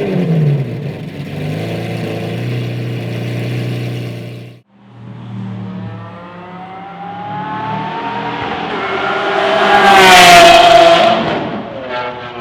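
V12 sports car engine and exhaust: a rev falling back to a steady low drone, then, after a cut about four and a half seconds in, another car accelerating hard with a rising pitch that peaks loudest near the end and then drops as it goes by.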